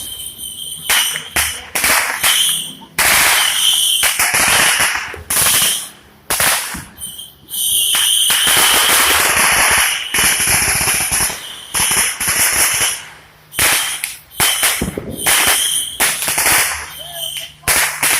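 Fireworks and firecrackers going off: repeated sharp bangs, some in quick runs, with stretches of continuous hissing crackle between them.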